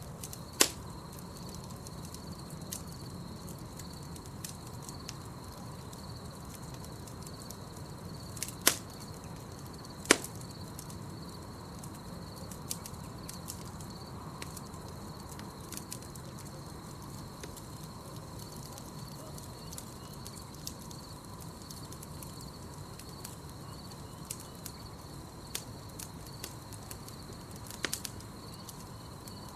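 Campfire crackling with scattered small snaps and four loud sharp pops, the loudest about ten seconds in. A steady pulsing trill of crickets runs underneath.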